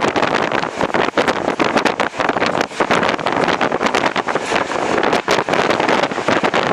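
Passenger train running, heard from on board, with wind buffeting the microphone in steady noise and many brief irregular dips.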